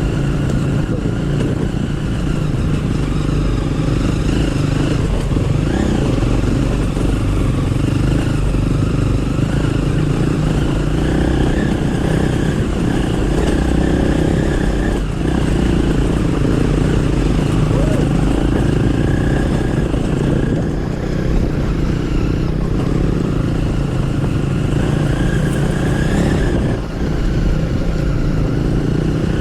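Dirt bike engine running continuously while riding a rough track, its pitch rising and falling with the throttle. There is a short drop in level near the end.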